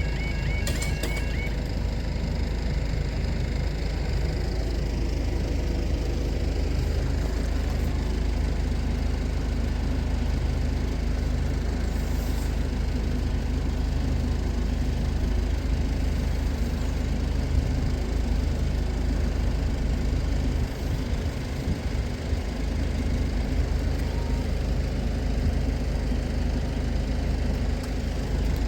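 Level crossing warble alarm sounding and cutting off about a second and a half in, followed by a steady low rumble.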